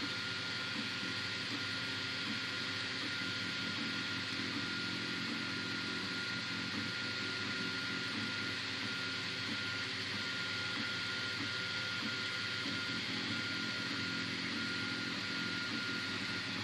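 Anet A8 3D printer at work: its fans give a steady hiss and hum with a constant high whine, and the stepper motors make short, irregular buzzing moves as the print head travels.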